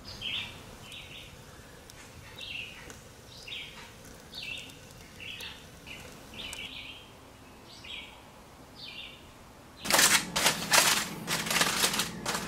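A bird chirping over and over outdoors, short calls about once every second or less. About ten seconds in this gives way to loud, crackling crinkles of aluminum foil being opened.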